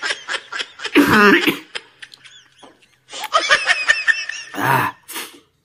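Laughter in several bursts of quick, pulsing giggles, with a rougher cough-like burst near the end, a reaction to the stench of a fart spray.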